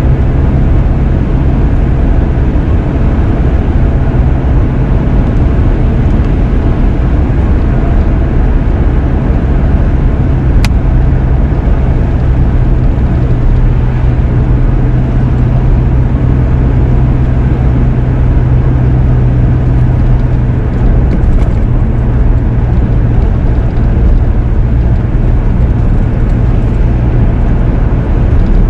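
Steady engine and road noise heard from inside a moving car, a loud low hum that holds even throughout, with one sharp click about ten seconds in.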